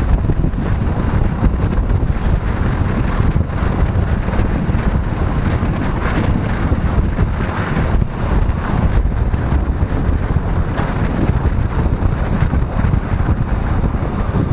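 Wind rushing over the microphone of a moving motorcycle, a steady loud rumble with road noise underneath.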